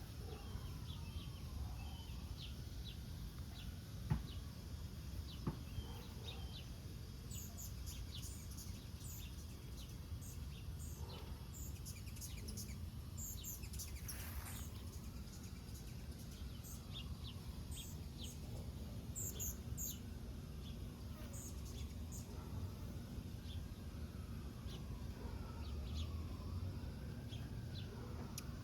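Small birds chirping in short, scattered high calls over a steady low outdoor rumble, with two sharp clicks a few seconds in.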